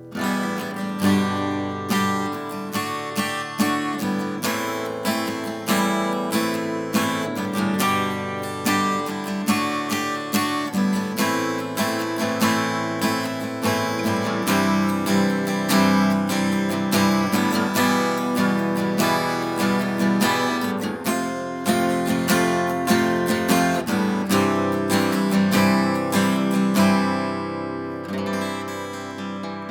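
1976 K.Yairi DY-41 acoustic guitar, with a solid Sitka spruce top and solid Honduras rosewood back and sides, played continuously: chords and picked notes in quick succession, the notes ringing on with long sustain.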